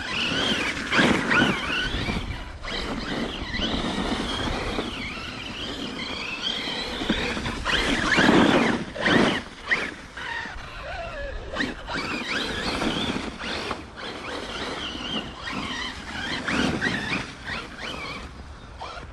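Arrma Kraton 6S EXB RC truck's brushless motor whining, the pitch rising and falling with the throttle, while the tyres churn through snow in repeated surges.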